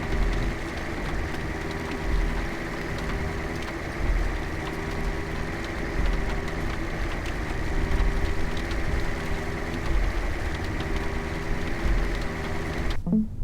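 A vehicle engine running steadily, with a low rumble swelling about every two seconds.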